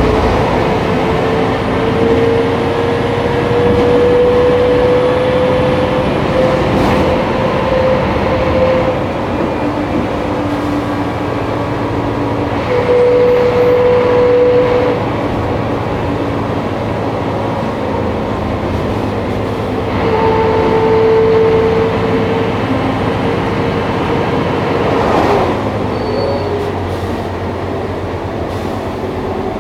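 Scania K310IA articulated bus with ZF automatic gearbox running under way: a steady diesel drone with a whine that rises slowly in pitch, fades, and returns twice, getting louder each time it comes back.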